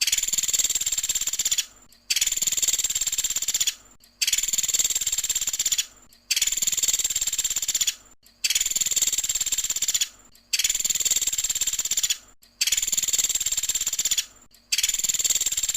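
Bird known to keepers as the 'pelatuk sampit' giving a long, high, rapid trill, repeated about seven times with short pauses in between. The repeats are so even that it sounds like a looped recording.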